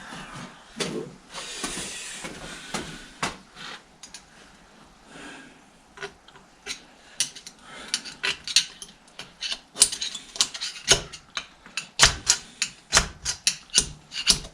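Hand tools tapping and scraping on metal as a slotted locking ring is worked round into place on a Fordson Major bull pinion bearing. Scraping early on, then sharp metallic taps that come faster and louder from about halfway through.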